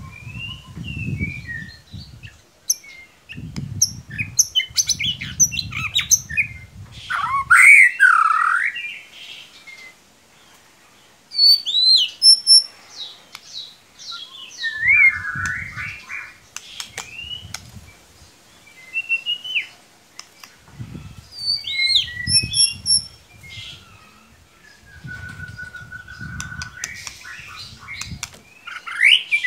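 White-rumped shama (murai batu) singing a varied song of clear whistles, rising and falling glides, short chips and harsher chattering notes, in phrases with brief pauses. Bursts of low rumble come and go underneath.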